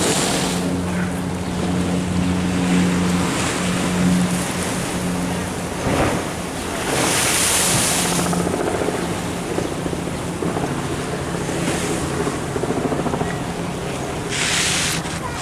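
Waves washing in against a sea wall in two loud rushes of hiss, about seven and fourteen seconds in, over the steady low hum of a motor running.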